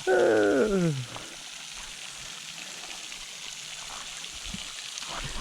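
Steady rush of a waterfall and flowing water. In the first second a man's drawn-out vocal exclamation slides down in pitch.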